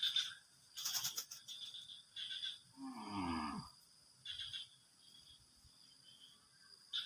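A cow mooing once, briefly and at a distance, about three seconds in, its pitch falling. Short chirping calls of insects or frogs come and go around it.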